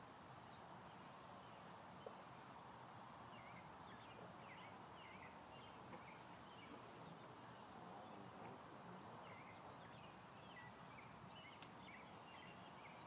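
Faint bird chirps: short, high notes in quick clusters starting a few seconds in, over a low steady outdoor hiss.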